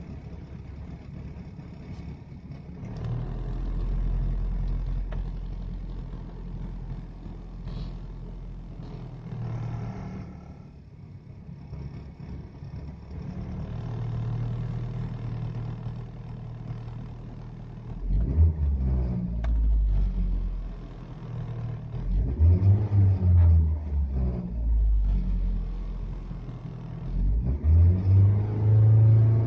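Rover 214SLi's 1.4-litre K-series four-cylinder engine running rough at low revs, its revs raised a few times. In the second half come loud, uneven low-pitched surges in several bouts as the revs rise and fall through 1000–2000 rpm. The owner suspects a misfire behind the rough running and vibration below 2000 rpm.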